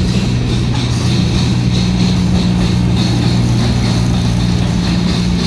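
Freight train of refrigerated boxcars rolling past at speed, steel wheels on rail, with a steady low engine hum running under the rolling noise.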